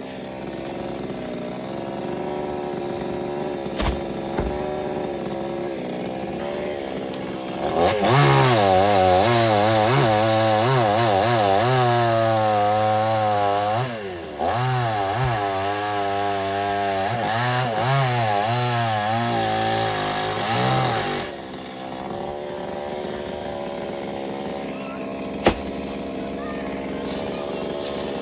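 Chainsaw cutting a coconut tree trunk. The engine runs at a lower speed, then is revved hard for about thirteen seconds with its pitch dipping and rising as the chain bites, and drops back to a lower run. A single sharp click sounds near the end.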